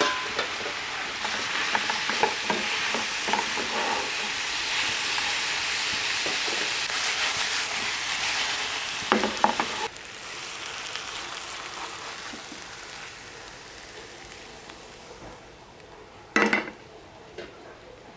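Food frying in hot oil in a pan: a steady sizzle with stirring, and a couple of sharp utensil knocks. About ten seconds in, the sizzle drops off suddenly to a quieter hiss that keeps fading.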